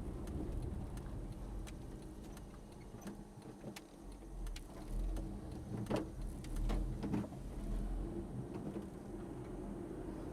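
Steady low vehicle rumble with scattered faint clicks, swelling a little about halfway through.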